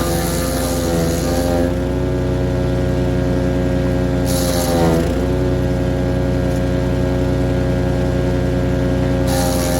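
An engine running at a steady speed, its pitch dipping briefly and recovering about halfway through, with a burst of hiss at the dip.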